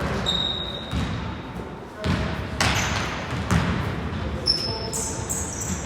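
Indoor basketball game: a ball bouncing on the hardwood court several times, short high sneaker squeaks, and players' voices in the background, echoing in the sports hall.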